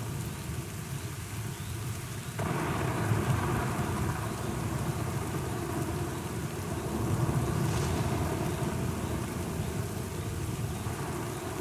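Steady rain with rolling thunder. The rumble comes in abruptly about two seconds in and swells again about two-thirds of the way through.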